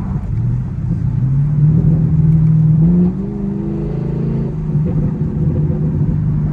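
Chevrolet Camaro SS V8 accelerating hard, its exhaust note climbing steadily for about three seconds. Then the pitch drops sharply and the engine runs on at a steady pitch.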